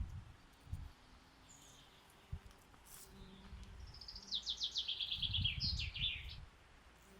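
A songbird singing one fast trill of about a dozen notes that falls in pitch, a little after halfway through, over low rumbling.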